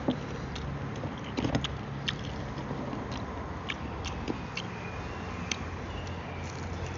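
Scattered crunches and clicks of someone chewing fried chicken feet, over a steady low hum.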